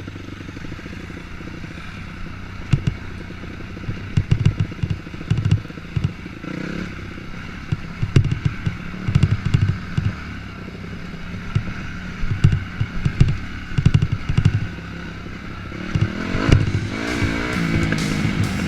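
A 250cc dirt bike's engine running at fairly low, steady revs while riding a rough trail, with frequent knocks and rattles from the bike and camera mount over bumps and rocks.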